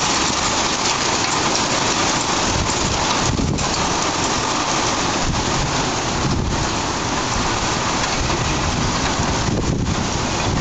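Heavy wind-driven rain pouring down in a violent squall: a loud, steady rush of rain.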